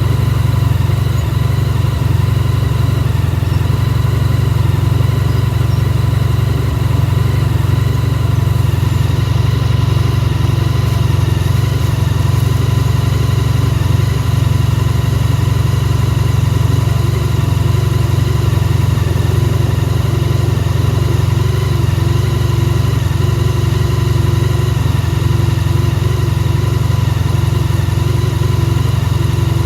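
Honda VFR1200F DCT's V4 engine idling steadily after a winter start, warming up after standing about three hours at around −7 °C.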